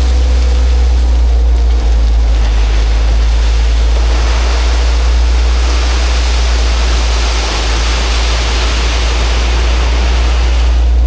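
Engine of a work machine running steadily under a low rumble, with a loud rushing, gritty hiss from about two seconds in that fades near the end.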